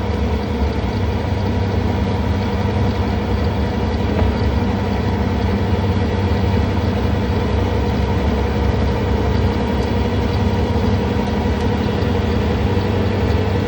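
John Deere 317 skid steer's diesel engine running steadily at wide-open throttle, heard from inside the cab, with its snowblower attachment running.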